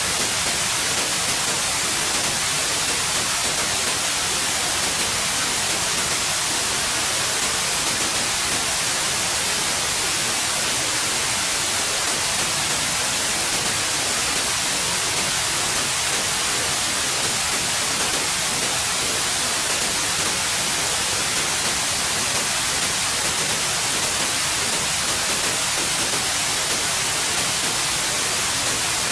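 Steady, continuous white noise: an even hiss, brightest in the high range, with no changes or events.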